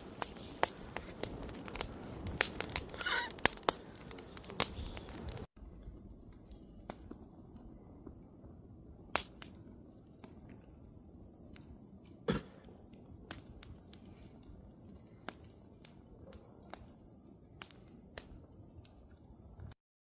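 Wood campfire crackling with irregular sharp pops, fairly dense at first. About five seconds in it drops suddenly to quieter, sparser crackles with a few louder pops, then cuts off just before the end.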